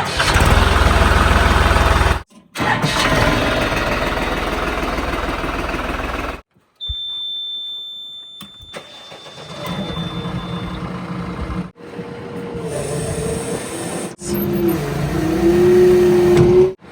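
Diesel engines of heavy vehicles running in a string of short clips cut together abruptly, with an engine revving, its pitch rising and dipping, near the end.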